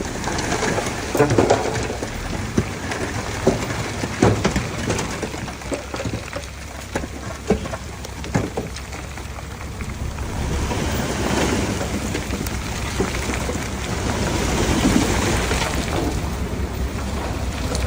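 Earthmoving machinery running with a steady low drone, with many scattered, irregular knocks and clatter over it.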